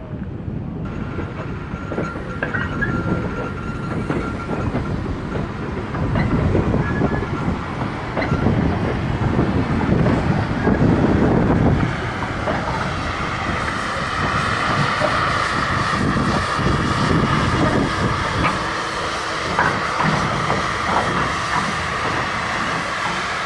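A train running on the rails with a low rumble and wheel clatter, loudest midway. About halfway through, a steady high-pitched ringing joins in.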